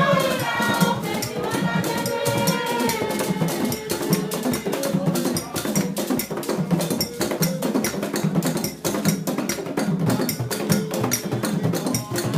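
Borborbor dance music: fast, dense drumming with sharp wood-block-like knocks in a steady rhythm, with a singing voice over it in the first few seconds.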